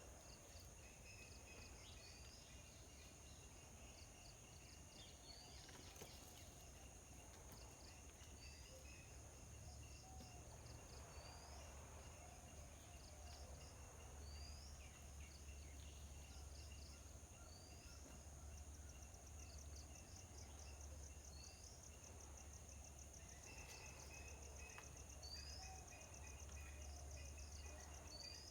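Faint outdoor ambience: a steady high-pitched insect drone, with a bird's short rising chirp repeated every two seconds or so. About two-thirds of the way in a rapid pulsing insect trill joins for several seconds, over a low steady hum.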